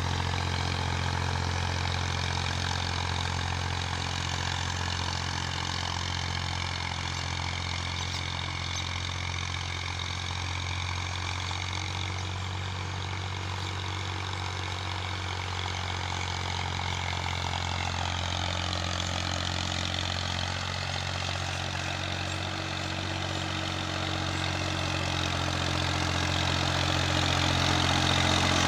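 Massey Ferguson 240 tractor's three-cylinder diesel engine running steadily while pulling a harrow, growing louder near the end.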